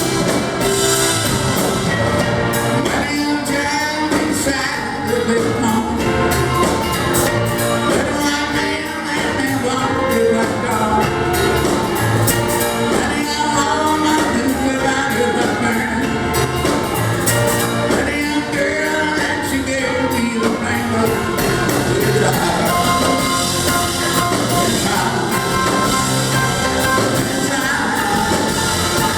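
Live rock band playing a song, with a man singing the lead.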